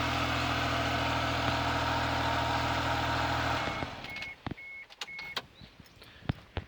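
2002 Suzuki Carry kei truck's small three-cylinder engine idling steadily, then shutting off about three and a half seconds in. Four short beeps and a few light clicks follow.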